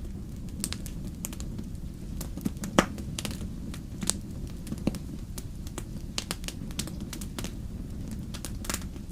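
Wood fire burning in a fireplace: a steady low rumble of the flames with frequent, irregular crackles and pops, one loud pop about three seconds in.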